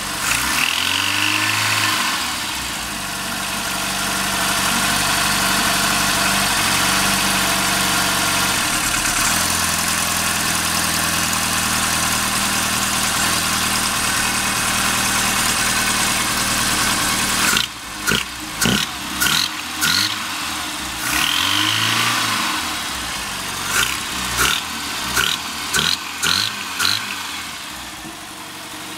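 Rover Mini Cooper MPI's four-cylinder A-series engine being revved: held at raised revs for a while, then blipped sharply several times in quick succession. Each throttle opening brings a harsh metallic knock that the owner cannot trace, which goes away when revs are steady or falling.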